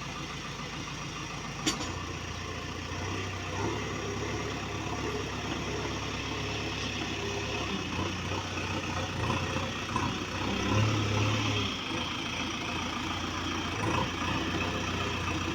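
Diesel engine of a heavy machine running, its low hum rising in speed about two seconds in, louder for a moment around eleven seconds, then settling. A single sharp click comes just before the rise.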